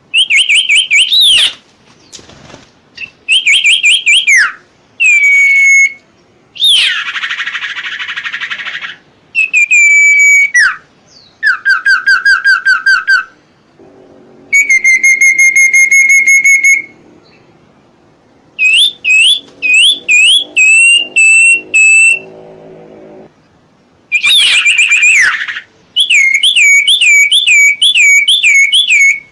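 A songbird singing a series of loud, clear whistled phrases with short gaps between them. Some phrases slide up and down, some are quick runs of repeated notes, and one harsh rasping phrase comes about seven seconds in.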